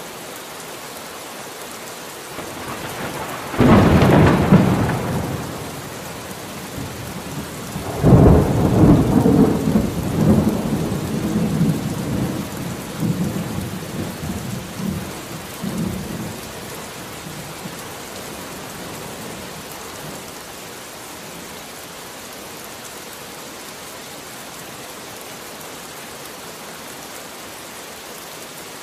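Steady rain falling with two peals of thunder: a sharp crack a few seconds in, then a longer rumbling peal that breaks into several surges and fades away over about ten seconds, leaving the rain alone.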